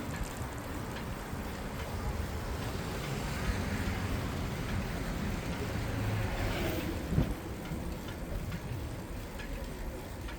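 Steady street noise heard from a bicycle riding a city bike path: a rush of wind and traffic with tyre hiss, and a single knock about seven seconds in.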